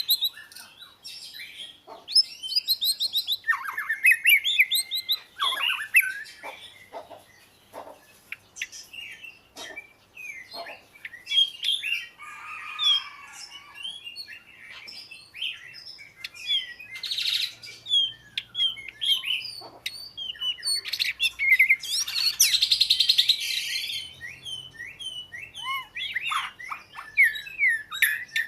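Oriental magpie-robin singing: a varied run of whistled phrases, quick chirps and rapid trills, with harsh buzzy notes about twelve seconds in and again, louder, a little past twenty seconds.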